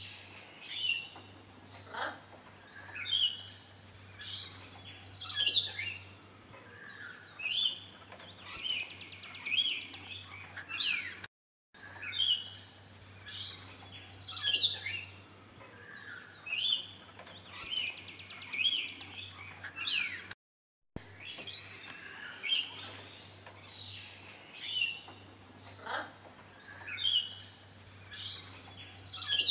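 Birds chirping and calling outdoors, short high calls about once a second with an occasional rising whistle, over a faint low steady hum. The sound cuts out completely twice, briefly.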